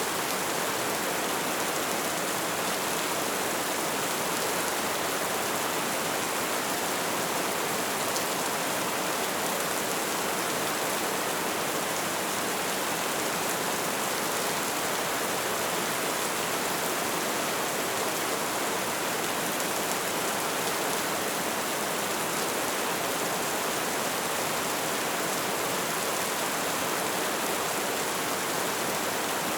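Light rain falling, a steady even hiss of many small drops with no distinct events.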